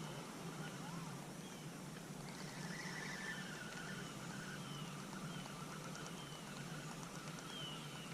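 Outdoor lakeside ambience: small birds giving short, falling chirps about once a second over a steady low hum, with a fainter cluster of distant calls around two to three seconds in.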